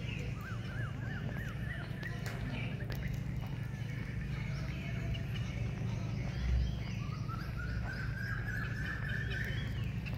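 Birds calling outdoors: a quick run of up-and-down chirps near the start and a longer series of chirps that rises slightly towards the end, over a steady low background rumble. A brief low thump about six and a half seconds in.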